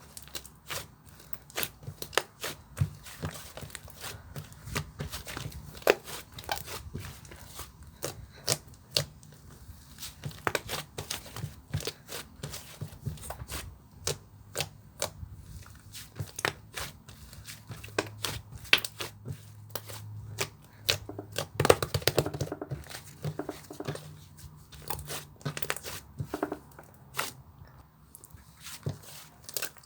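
Hands squishing and stretching slime, giving many sharp sticky clicks and pops at an irregular pace.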